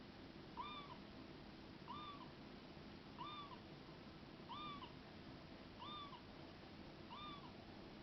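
Toy cat giving a faint meow six times, each call the same short rise-and-fall, about one and a quarter seconds apart.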